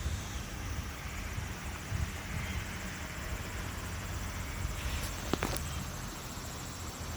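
Wind rumbling on the microphone over faint outdoor background noise, with a couple of sharp clicks about five seconds in.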